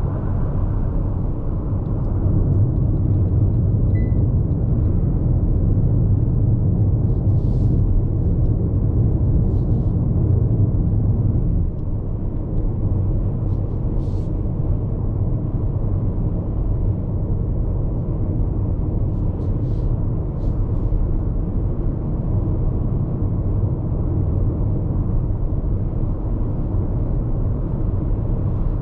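Tyre road noise and wind noise heard inside the cabin of a Hyundai IONIQ 5 AWD electric car at expressway speed: a steady low rumble with no engine sound. It eases slightly about halfway through, and a few faint short ticks come through now and then.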